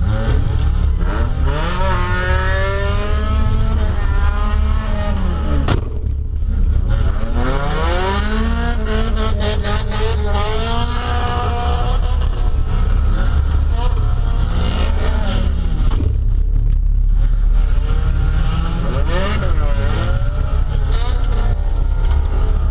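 Derby car's engine heard from inside the cabin, revving up and down again and again over a heavy low rumble. A single sharp bang comes about six seconds in, and a burst of rattling knocks follows around eight to ten seconds in.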